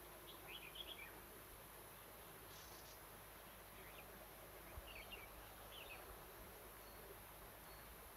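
Faint bird chirps in four short phrases of a few quick high notes each, over a steady low hiss.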